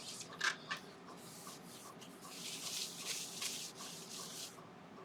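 Rubbing strokes over the freshly oiled ash bowl, a run of short hissy swipes with a busier stretch in the second half that stops shortly before the end.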